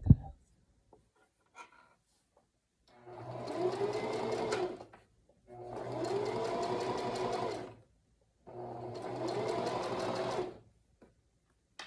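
Singer sewing machine running in three bursts of about two seconds each, the motor speeding up at the start of each run, as a straight stitch is sewn along a seam.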